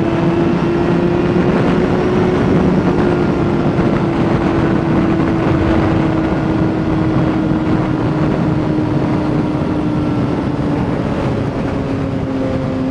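Honda CBR600RR sport bike's inline-four engine running at a steady high pitch under way, climbing slightly and then easing down slowly, with wind rushing over the helmet microphone.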